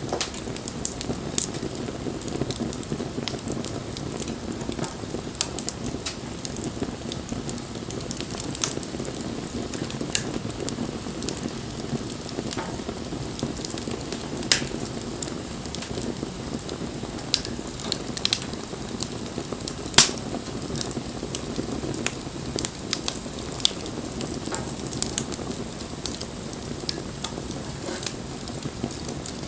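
Wood fire burning: a steady low rush of flame with irregular crackles and sharp pops from the burning wood, one pop louder than the rest about two-thirds of the way through.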